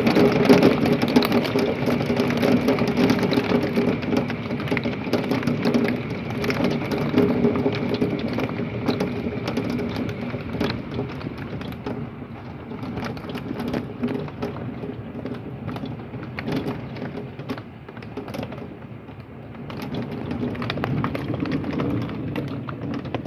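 Heavy thunderstorm rain pouring and pelting a window, with many sharp ticks of drops striking. It eases about halfway through and builds again near the end.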